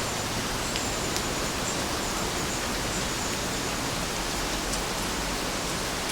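Steady, even rain with a few faint individual drop ticks.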